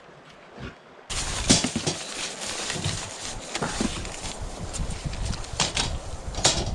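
Wind buffeting the microphone, coming in abruptly about a second in, with several sharp clicks and knocks as a bundle of poles is handled in a canoe.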